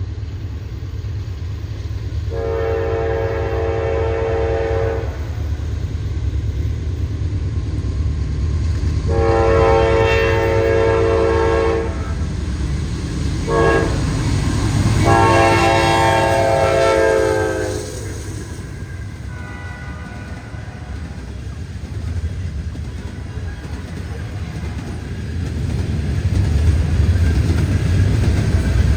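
Locomotive air horn sounding the long, long, short, long grade-crossing signal as a train approaches, a chord of several tones. A low rumble of the passing train runs underneath and grows louder near the end.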